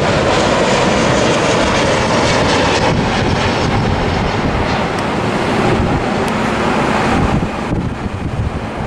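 Boeing 737 jet airliner passing low overhead on its landing approach: a loud, steady jet roar with a faint whine that slowly falls in pitch, easing off about seven and a half seconds in.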